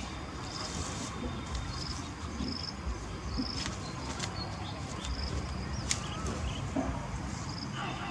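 An insect trilling in short high chirps about once a second, over a steady low rumble of outdoor background noise.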